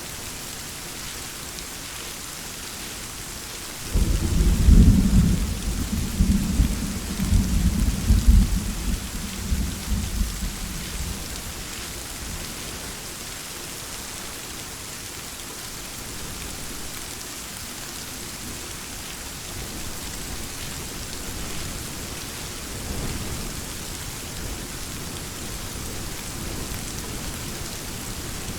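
Steady heavy rain, with a clap of thunder that breaks in suddenly about four seconds in and rolls on in low rumbles for several seconds, then a fainter distant rumble later.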